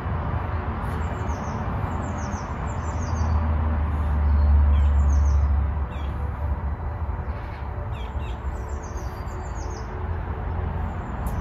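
Small birds chirping: short, quick falling calls repeated in little runs. Under them a steady hiss, and a low rumble that swells about three to six seconds in.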